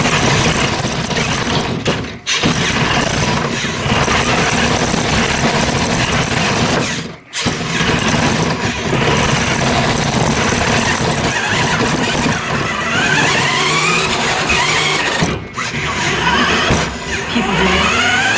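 1/8-scale RC truck's motor running, with a rising whine twice in the second half as it revs up.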